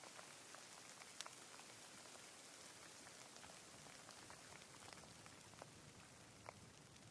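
Faint, light rain: a steady soft hiss with individual drops ticking here and there, one louder drop about a second in.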